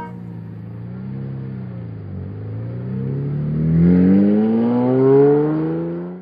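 Car engine revving, slowed down: its pitch dips, then climbs steadily for about four seconds and gets louder, before cutting off suddenly at the end.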